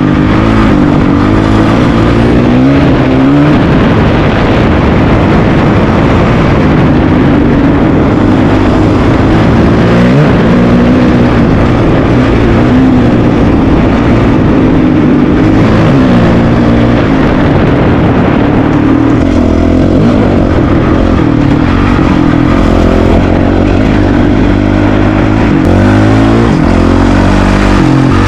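Honda CRF450RL's single-cylinder four-stroke engine running loud under way, its pitch climbing and dropping back again and again as the bike accelerates and eases off.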